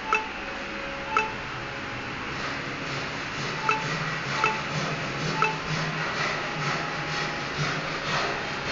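Hammer taps with a brief metallic ring, five sharp strikes at uneven intervals, over a steady rubbing noise.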